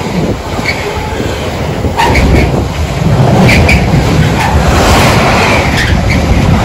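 Train passing through a station: a loud rumble that swells about two seconds in, with a run of sharp clicks.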